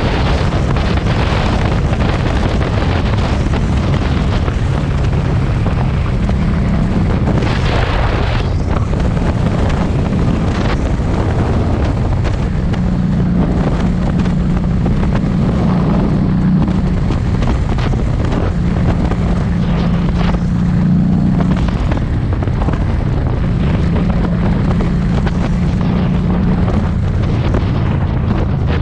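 Harley-Davidson Street 500 V-twin running on the road, its exhaust note rising and falling as the bike accelerates and eases off, under heavy wind noise buffeting the microphone.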